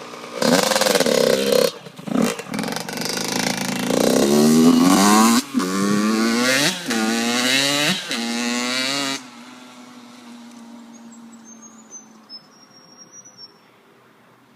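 Yamaha YZ85's two-stroke single-cylinder engine revving hard through the gears as the dirt bike rides past, its pitch climbing and dropping several times. About nine seconds in it drops off suddenly to a faint, steadier note that fades away.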